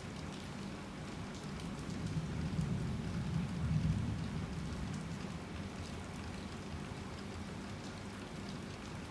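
Heavy rain falling steadily on surfaces, with a low rumble of distant thunder that swells about two to four seconds in and then fades away.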